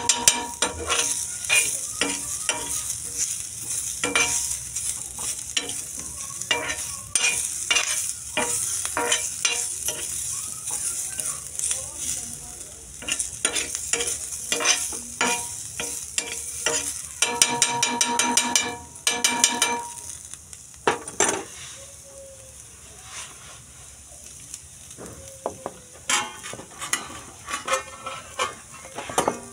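Diced vegetables frying in oil in a black pan, sizzling steadily, with repeated scrapes and clicks of a spatula stirring them. The stirring stops for a few seconds about two-thirds of the way in, leaving a quieter sizzle, and starts again near the end.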